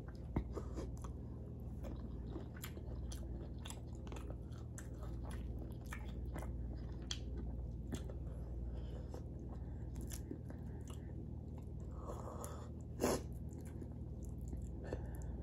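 A person chewing and eating boiled seafood close to the microphone: many small wet clicks and smacks of chewing, with one sharper, louder click near the end, over a steady low hum.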